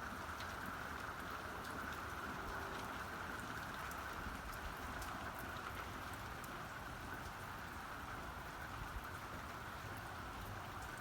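Steady rain falling, with scattered sharp ticks of individual drops hitting surfaces.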